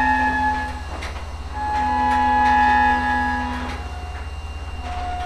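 Diesel locomotive air horn, on the EMD SD45T-2 leading the train, sounding separate long blasts of a chord: one ending just under a second in, a second lasting about two seconds, and a third near the end at a lower pitch. A steady low rumble runs underneath.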